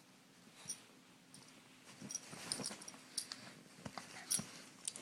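A dog moving about excitedly, with an irregular run of short metallic jingles and clicks and a few soft thumps, busiest from about two seconds in; no barking.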